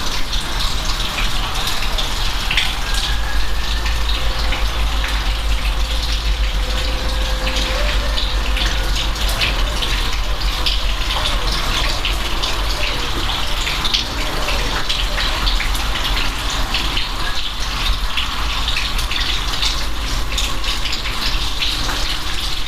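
Steady, loud rainfall, a continuous hiss with many individual drops ticking and splashing on a surface.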